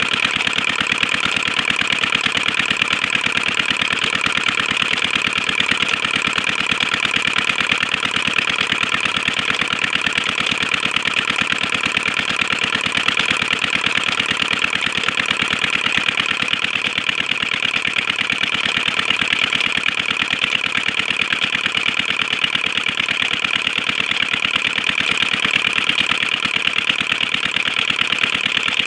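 Petter diesel engine of a farm tube well running steadily at an even speed.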